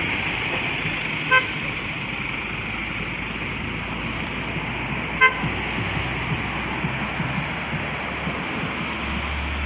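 Road traffic running steadily, with a vehicle horn giving two short toots, one about a second in and another about five seconds in.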